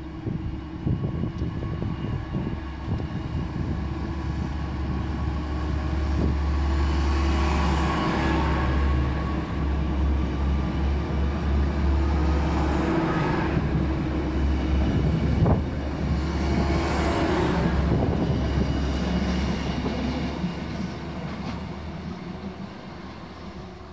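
Two coupled Stadler GTW diesel multiple units running past along the platform: a steady low diesel drone with rail and wheel noise that swells several times as the cars go by close, with a single knock midway, then fades as the train moves away.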